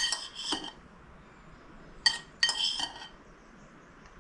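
Metal utensils clinking against ceramic bowls as ramen toppings are served out: a few sharp clinks with a brief ring at the start, then another cluster about two seconds in.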